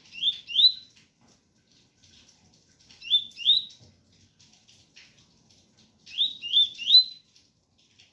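Double-collared seedeater (coleiro) singing its 'tui-tui' song: three short phrases of rising notes, two notes, then two, then three, about three seconds apart. Faint rain in the background.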